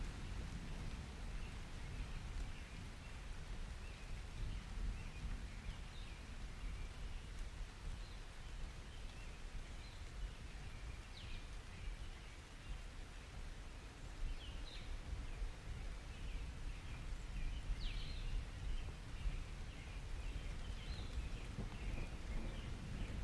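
Birds chirping in short, scattered calls over a steady low rumble from a summer rain-and-thunder ambience.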